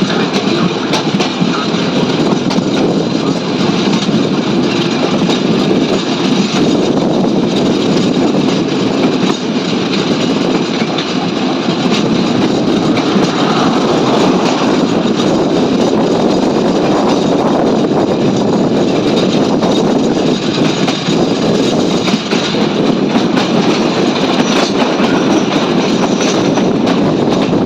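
Intercity passenger train running on the rails, a steady rumble of wheels and carriages with many small clicks of wheels over the rail joints.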